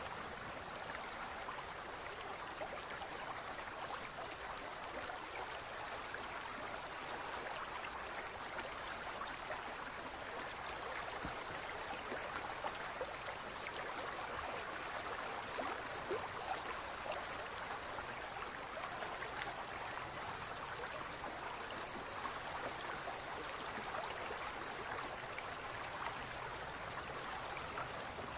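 Running water trickling and babbling steadily, a continuous stream-like splash full of small droplet ticks.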